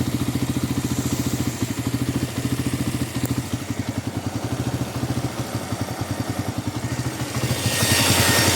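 Benelli 125S single-cylinder engine idling with a rapid, even beat. Near the end the engine's electric cooling fan comes on with a loud rising whoosh over the idle, working to cool the hot engine.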